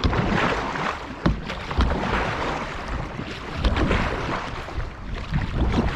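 Several canoe-paddle strokes in lake water from a one-person raft, splashing in surges every second or so, over wind buffeting the microphone.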